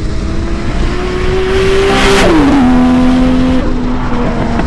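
Sport bike inline-four engine with a slip-on exhaust pulling under acceleration, its pitch rising steadily and then dropping sharply a little over two seconds in as it shifts up a gear, with wind rushing over the helmet microphone.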